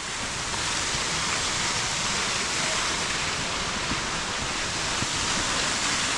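A waterfall of about 60 feet, its falling water making a steady, even rushing hiss.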